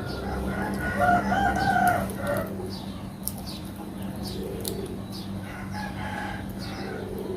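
A rooster crowing, one long call about a second in, with fainter chicken calls later.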